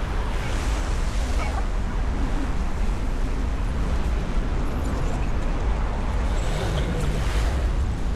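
Steady outdoor rumble, mostly wind buffeting the microphone, with a constant low roar and no distinct events.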